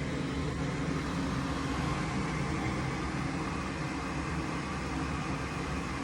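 A home furnace running with a steady mechanical hum during another restart attempt, after it had stopped working properly.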